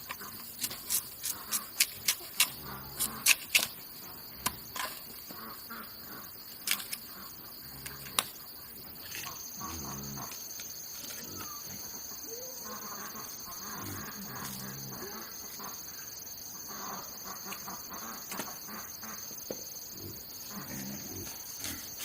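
Insects buzzing steadily in a high band, getting louder about nine seconds in. During the first several seconds a quick run of sharp taps or knocks sounds over it.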